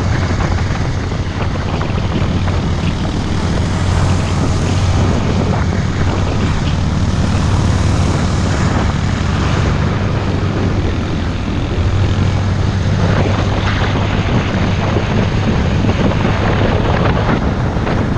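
Engine running at a steady speed under a heavy rush of wind on the microphone; it stops abruptly at the end.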